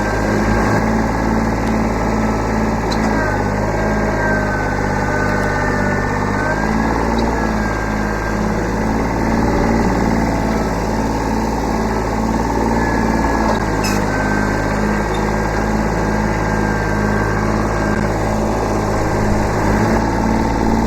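Kubota B7100 subcompact tractor's diesel engine running steadily, with a thin high whine above it that wavers up and down in pitch.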